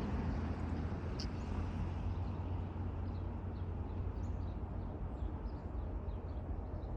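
Steady low rumble of approaching diesel locomotives, GP38-2 units, heard from a distance, with faint high chirps of small birds in the second half.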